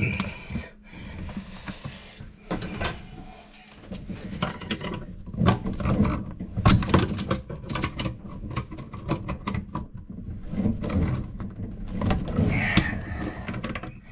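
Irregular clicks, taps and knocks of hand tools working on the water-supply valves and fittings of a washing-machine box, with a short squeak near the end.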